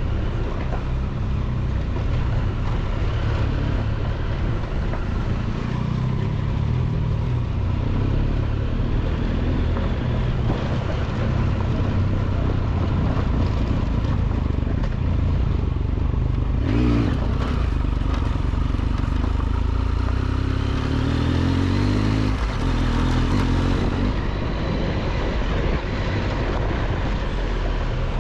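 Triumph Tiger 1200 XCX inline-three motorcycle engine running under way on a dirt road, mixed with wind and tyre noise. About twenty seconds in the engine note climbs as it accelerates, then drops suddenly, with a brief clatter a few seconds before.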